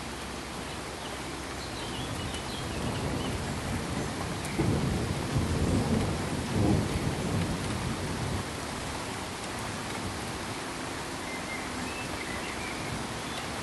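A steady pink-noise hiss with a low rumble of thunder building in, loudest about the middle, then stopping abruptly. Faint high chirps sound now and then.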